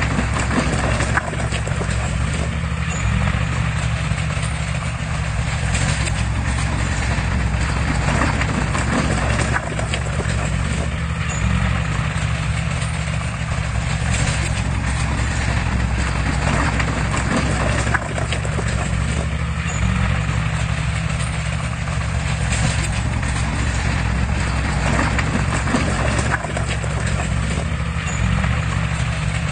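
Heavy diesel earthmoving machinery running steadily, with a continuous scatter of knocks and clatter over the engine.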